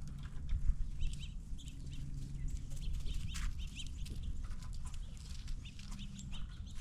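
Squirrels cracking and gnawing peanut shells on a feeding table: a run of small, irregular clicks and crackles, over a steady low rumble.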